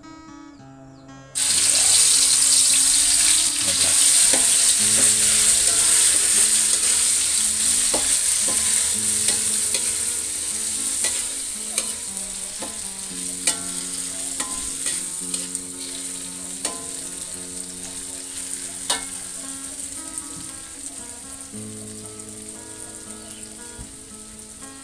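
Ground spice paste dropped into hot oil in a wok catches with a sudden loud sizzle about a second in, which slowly dies down as it fries. Metal spatula scrapes and taps against the wok as the paste is stirred.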